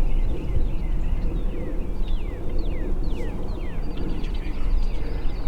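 Small birds singing outdoors, a run of short downward-sliding whistles repeated in quick clusters, over a steady low rumble.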